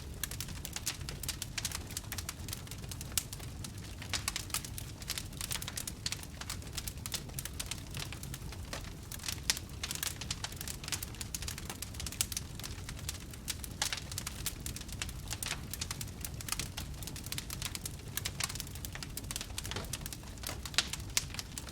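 Wood fire crackling steadily: many sharp pops and snaps, some louder than others, over a low rumble of the burning.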